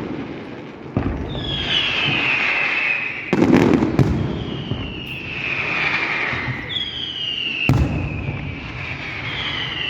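A fireworks display: sharp bangs of bursting shells about a second in, around three seconds in and near eight seconds in. High whistling tones falling in pitch sound between the bangs, four times.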